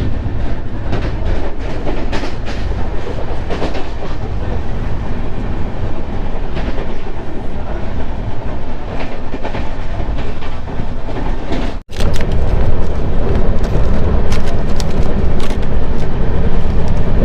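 Double-decker express train running at speed, heard from inside a passenger coach: a steady low rumble with frequent wheel clicks over the rail joints. It breaks off for an instant about twelve seconds in and comes back louder.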